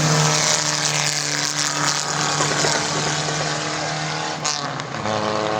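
Car engines running at steady revs with a constant note. About five seconds in, the note changes to a lower, steadier one.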